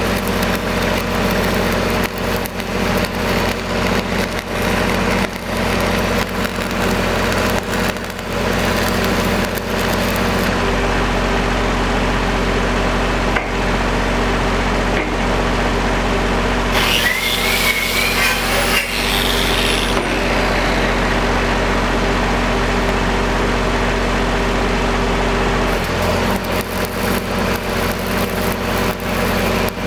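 An engine-driven welding machine runs steadily under a dense, irregular crackle typical of stick welding with 8010 rods. The crackle stops at about ten seconds, leaving the engine alone, with a short wavering squeal near the middle. The crackle returns a few seconds before the end.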